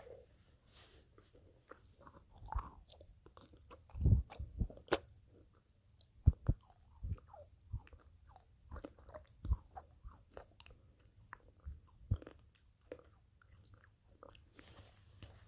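A person chewing and eating close to the microphone: irregular mouth sounds with scattered sharp clicks and knocks, the loudest cluster about four to five seconds in.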